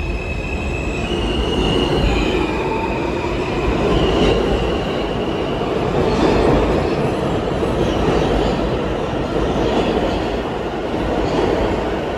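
New York City subway train running through the station: a steady rumble of wheels on the track, with high-pitched tones that shift up and down in pitch over the first six seconds or so.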